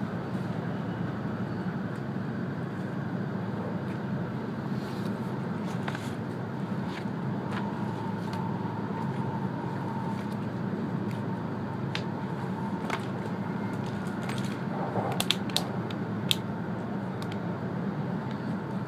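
Steady running noise heard inside the cabin of an E2-series Shinkansen at speed: a low, even rumble from the wheels and track. A few sharp clicks come close together late on.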